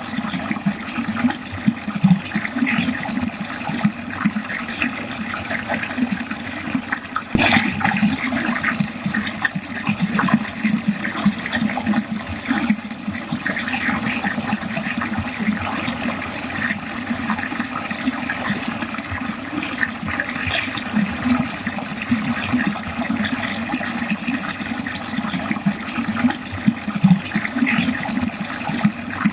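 Water steadily running and gurgling down a drain, an uneven, continuous splashing flow. One brief sharper splash or knock comes about seven seconds in.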